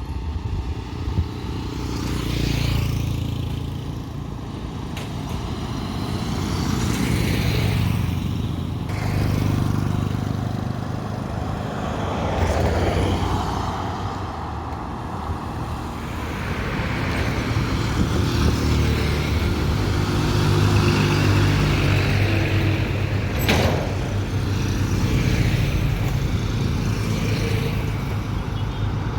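Road traffic: motor vehicles passing one after another, their engine sound swelling and fading in turn. A single sharp click comes about three-quarters of the way through.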